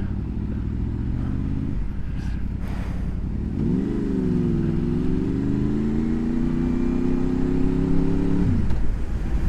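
Honda VFR motorcycle's V4 engine heard from the rider's helmet over low wind rumble: running steadily, easing briefly, then opening up about a third of the way in with a pitch that climbs steadily as the bike accelerates, before the throttle closes near the end.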